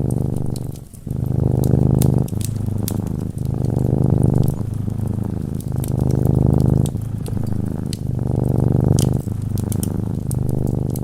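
Domestic cat purring in a steady rhythm of breaths a little over a second each, alternating stronger and weaker, with a brief pause about a second in. Light crackles and pops from a wood fire come through over it.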